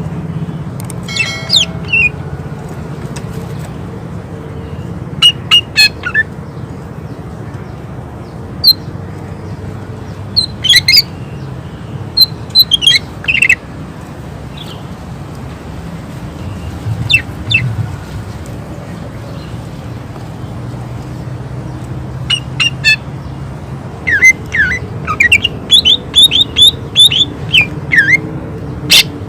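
Cucak ijo (leafbird) singing sharp, loud, short whistled notes in scattered bursts, the 'shots' that keepers prize, with a rapid run of notes near the end over a steady low hum.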